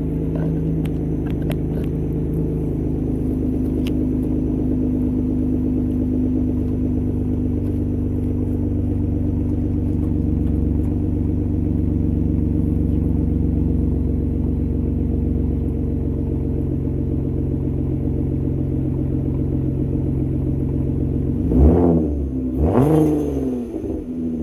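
Dodge Journey engine idling steadily, then blipped twice in quick succession near the end, each rev rising and dropping straight back to idle. The engine is still on its stock tune.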